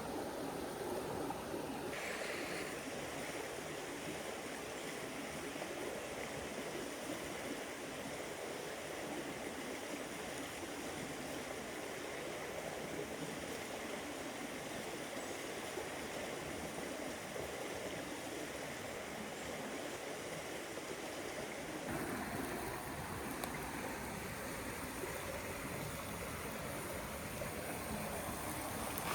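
River water rushing steadily over stones, an even noise that shifts abruptly in character twice, about two seconds in and again near twenty-two seconds.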